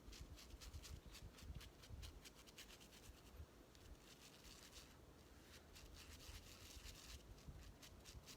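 Faint, quick scratchy strokes of a small makeup brush's wet bristles being rubbed back and forth through soap to lather it clean, in fast runs with a short lull partway through.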